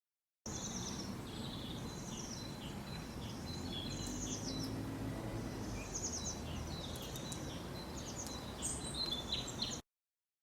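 Small birds chirping outdoors: many short high notes and quick runs of chirps, several birds overlapping, over a steady low background rumble. The sound starts abruptly about half a second in and cuts off suddenly near the end.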